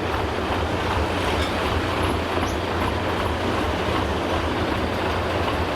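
Heavy diesel engine running at a steady rumble.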